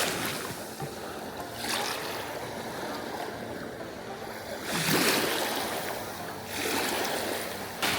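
Sea waves washing onto the shore. The wash of surf swells up three times, loudest about five seconds in.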